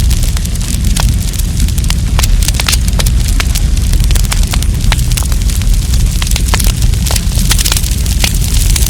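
Campfire of burning wood crackling, with many sharp pops and snaps several times a second over a steady low rumble.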